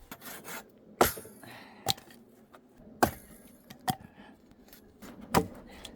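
Axe chopping firewood into small pieces: five sharp strikes at about one-second intervals.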